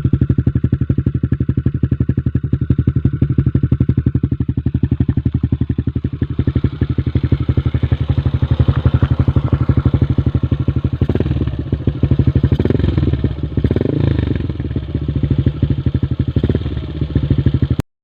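Yamaha LC135's 135 cc single-cylinder four-stroke engine running at idle through an Exzos Espada E4 aftermarket exhaust on a 30 mm manifold, a loud, steady pulsing exhaust note. From about eleven seconds in the note turns uneven with some rattly clatter.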